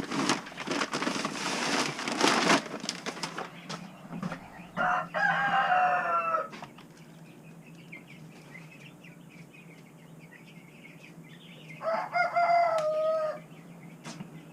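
A rooster crowing twice: a call about five seconds in and a shorter one near the end. A burst of noisy rustling comes in the first couple of seconds.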